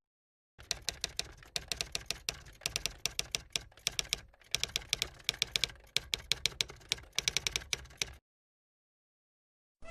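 Wood fire crackling: irregular sharp pops and snaps in quick clusters, stopping about eight seconds in.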